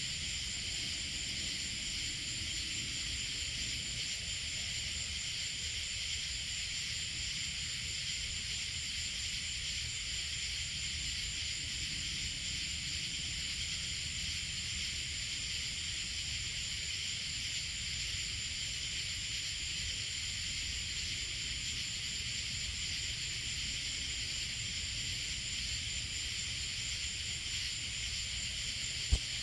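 A steady, high-pitched chorus of night insects, with a low steady rumble underneath and a single sharp click shortly before the end.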